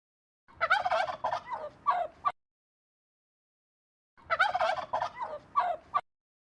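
Turkey gobbling twice, each gobble lasting close to two seconds.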